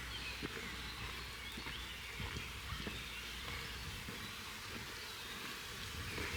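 Outdoor countryside ambience: faint, scattered bird chirps over a steady background hiss, with a low rumble in the first part.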